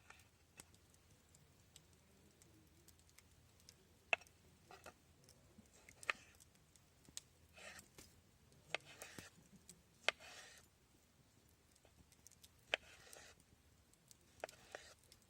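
Scattered sharp clicks and knocks, about a dozen, mixed with a few short rustles, as of small things being handled and set down.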